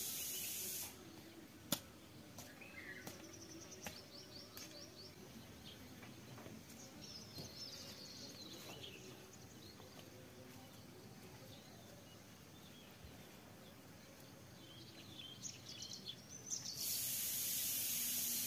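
Faint outdoor ambience with small birds chirping in short, scattered calls. A sharp click comes a little under two seconds in. A loud, steady hiss fills the first second and returns for about the last two seconds.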